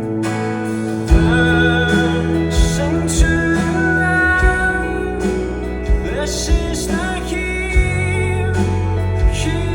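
A rock band playing live, loud through the venue: held bass and guitar chords, a sliding sung line, and drum hits about once a second.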